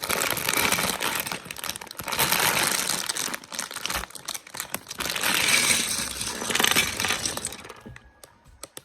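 Plastic Lego parts bag being torn open and crinkled, with small bricks clicking against each other inside. The crinkling dies away near the end, leaving a few light clicks.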